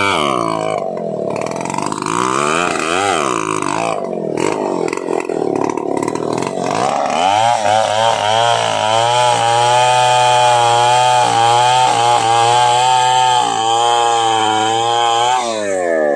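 Stihl 070 two-stroke chainsaw engine being revved: it blips up and down several times, then holds high revs for about eight seconds before dropping back near the end.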